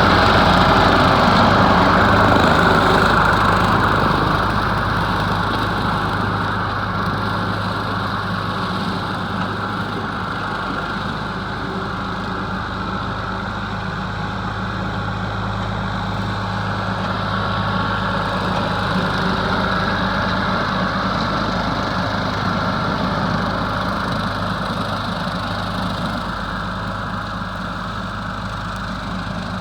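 Ford 4000 tractor's three-cylinder diesel engine running steadily while brush hogging with a seven-foot rotary cutter. It grows somewhat quieter over the first ten seconds, then holds steady.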